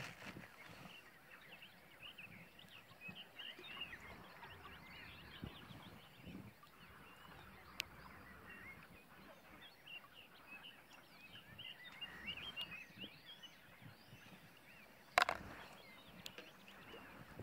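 Small birds chirping and calling over and over against a faint outdoor hiss, with one sharp knock about fifteen seconds in.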